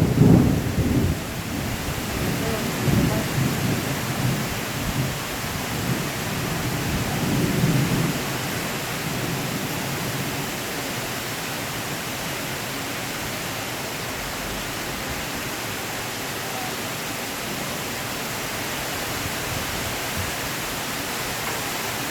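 Heavy rain pouring steadily in a thunderstorm, with thunder rumbling low in a few rolling swells over the first eight seconds or so before the rain alone carries on.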